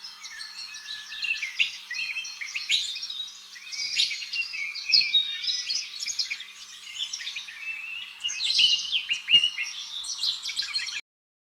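Small birds chirping and twittering, many quick, high calls overlapping without a break, cutting off abruptly just before the end.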